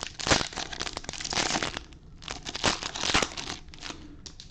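Foil wrappers of Bowman baseball card packs crinkling and tearing in irregular rustles as packs are handled and opened, dying down near the end.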